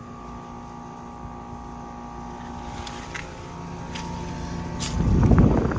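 A 4-ton Nordyne central air conditioner condensing unit running under load: a steady compressor hum with several held tones, working normally. A loud low rumble on the microphone comes about five seconds in.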